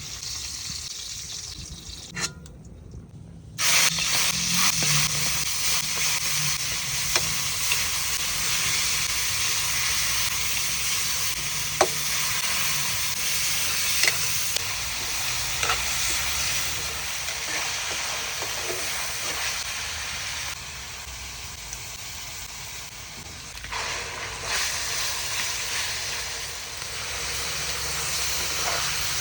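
Food sizzling in hot oil in a pan while being stirred, with occasional sharp clicks of a utensil against the pan. The sizzle drops out briefly and comes back suddenly and louder about three and a half seconds in.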